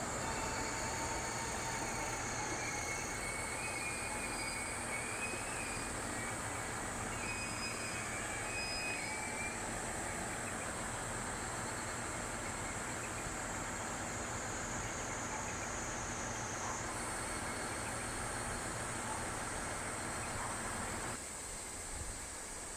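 Diesel railcar of the Tadami Line running steadily with a low rumble, over a high chorus of cicadas; the rumble cuts off suddenly near the end.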